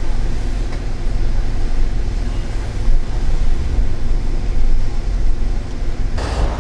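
Steady low rumble of the Holden Commodore SS V's 6.0-litre V8 idling, heard from inside the cabin.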